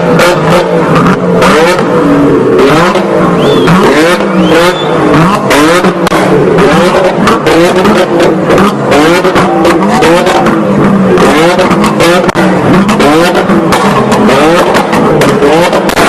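Car engine revved over and over in short blips, its pitch rising and falling, with the exhaust popping and cracking throughout: backfires made to burst in the exhaust.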